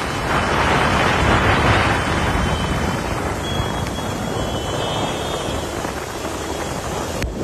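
Loud, steady rushing noise of heavy rain and floodwater, with wind buffeting the microphone.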